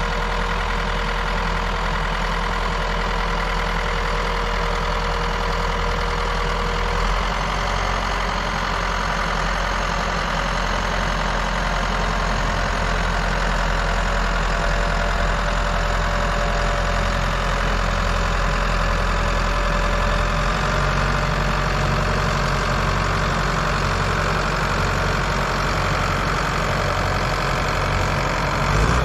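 Tractor engine running steadily while towing a cabin on chains, its note shifting slightly about seven seconds in and dropping near the end.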